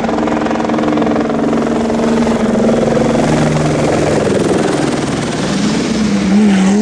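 Rally car engine running at a steady pitch, its note wavering and starting to climb near the end as the revs rise.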